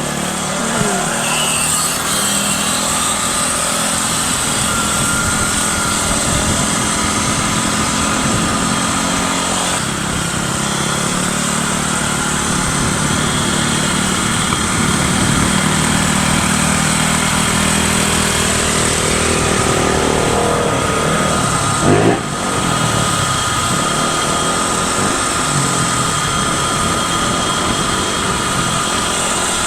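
Electric bikes riding in a group, with a steady motor whine over road and wind noise. About two-thirds of the way through, one bike gives a quick rev that rises and falls.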